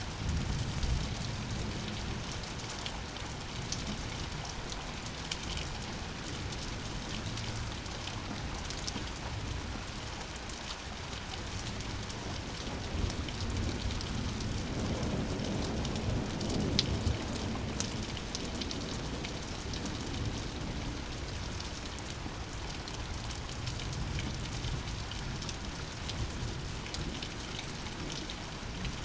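Steady rain falling, with the sharp ticks of single drops landing close by. Thunder rumbles up about halfway through, swells for several seconds and fades back into the rain.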